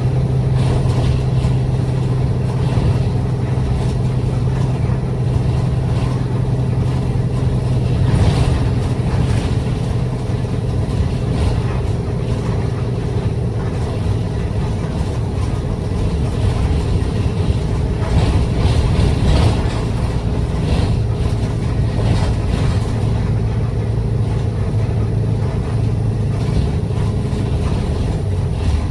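Route bus engine running and road noise heard from inside the passenger cabin while driving, with a steady engine drone that shifts lower about halfway through.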